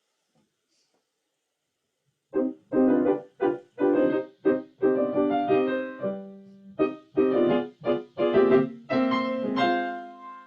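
Piano played in short, detached chords, starting about two seconds in, picked up by a laptop's built-in microphone through Zoom's default sound settings; the sound cuts out almost completely between many of the chords.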